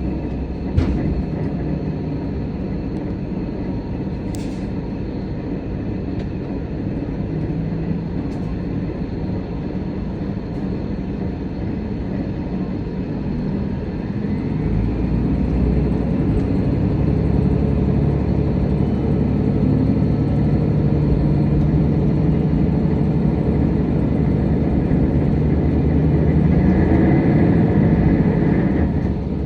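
Nishikigawa Railway diesel railcar running with a steady low rumble. Its engine note grows louder from about halfway, and a faint higher whine joins near the end.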